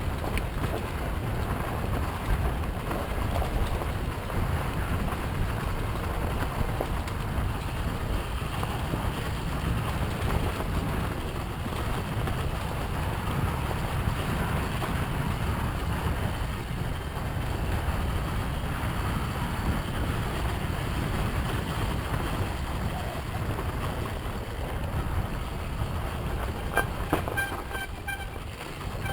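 Steady low wind rumble buffeting the microphone, with no clear engine note. Near the end a short run of pulsed, honk-like tones sounds.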